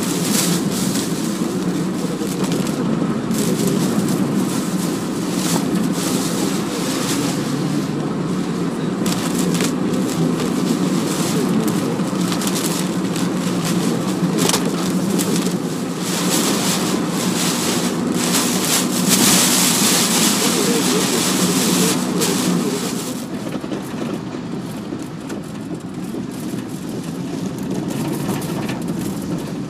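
Typhoon wind and rain buffeting a moving car, heard from inside the cabin along with the steady rumble of tyres and road, with crackling spatters against the body. About two-thirds of the way through a louder hiss of rain or spray lasts a few seconds, then the noise eases a little.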